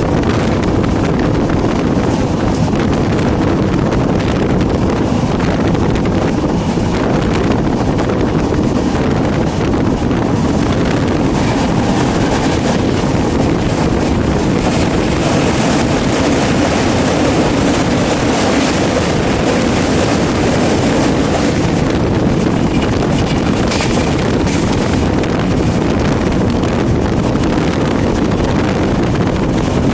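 Steady running noise of a moving passenger train, a continuous rumble with wind buffeting the microphone.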